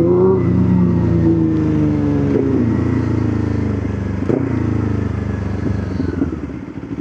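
Motorcycle engine running while riding, its pitch falling steadily over the first few seconds as the bike slows, then holding roughly level. It gets quieter near the end.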